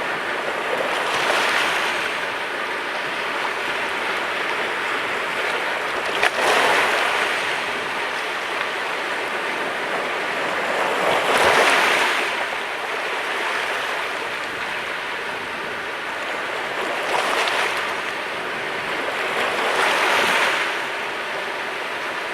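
Sea waves breaking on the shore five times, each a swelling and fading rush of hiss, over a steady wash of water. A brief sharp click comes about six seconds in.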